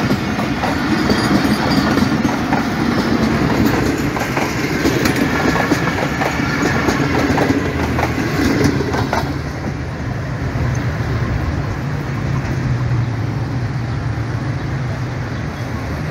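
Pakistan Railways passenger coaches rolling past close by, their wheels clacking rapidly over the rail joints. About halfway through, the clatter gives way to a lower rumble as the train moves off down the line.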